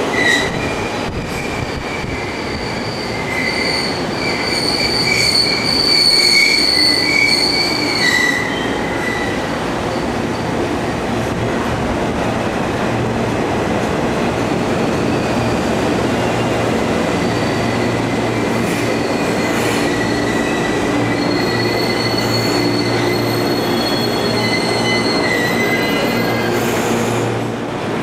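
Electric commuter train on the Joban Line moving through the station. Its wheels squeal with high, steady tones for the first several seconds. It then runs on with a steady rumble and hum, and fainter squeals come back later.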